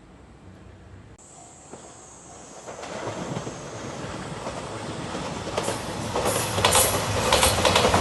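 JR Shikoku 2700 series diesel limited express approaching and running through a level crossing, growing steadily louder. About six seconds in, its wheels start a loud clickety-clack over the rail joints. A level-crossing bell rings faintly in the first couple of seconds.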